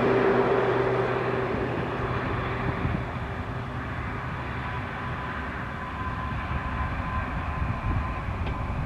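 Airbus A321 jet engines running as the airliner rolls out after landing, a loud rushing noise with a steady whine on top that dies down over the first few seconds and then holds steady.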